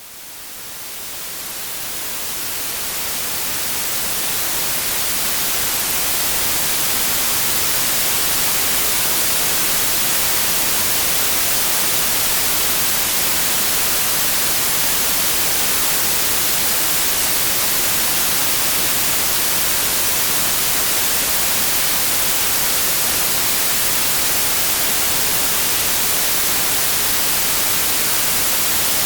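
Pure white noise: an even, featureless hiss that fades in over the first several seconds and then holds steady.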